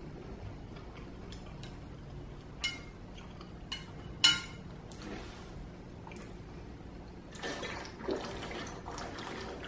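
Close-up eating sounds from a mukbang: a few sharp wet clicks, about three and four seconds in, then a couple of seconds of chewing near the end.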